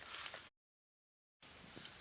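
A few footsteps over faint outdoor background, cut off about a quarter of the way in by about a second of dead silence from an edit, then faint steady background hiss.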